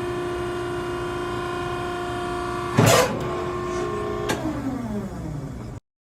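Maren baler's hydraulic pump motor running with a steady hum. About three seconds in there is a loud clunk, and a second later a click, after which the hum falls in pitch as the motor is switched off and spins down.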